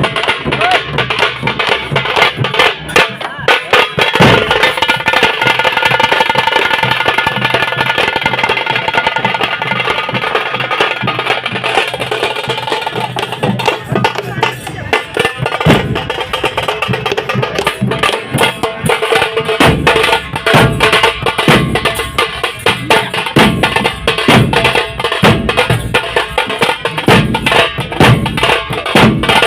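Tasha drums beaten fast with thin sticks in a dense, rapid rhythm, with deeper drum strokes standing out from about twenty seconds in.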